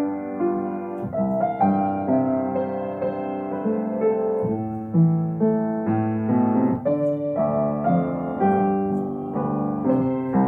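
Instrumental music on a keyboard: a slow melody over held chords, with no singing.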